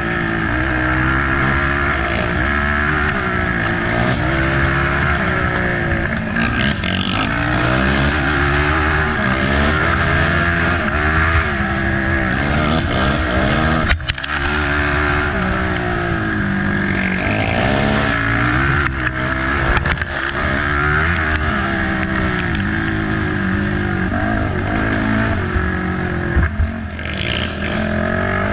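Race ATV engine revving hard, its pitch repeatedly climbing and dropping with throttle and gear changes. A single sharp knock about halfway through.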